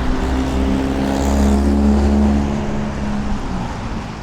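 A motor vehicle's engine running close by on the street, a steady hum that holds for about three seconds and then fades away. Under it is a heavy low rumble of storm wind on the microphone.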